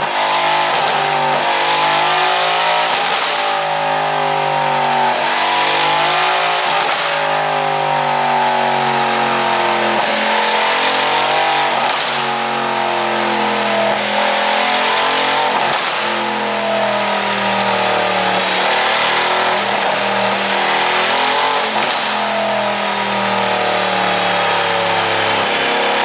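Mercedes-AMG C63's twin-turbo V8 exhaust running steadily with a tune made to pop and crackle. Sharp cracks cut through the engine note every four or five seconds, about five times.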